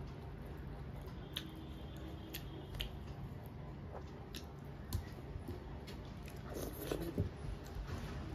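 A person chewing a mouthful of chicken curry and rice with soft, wet mouth sounds, then fingers squishing and mixing food on a steel plate, with a few small sharp clicks.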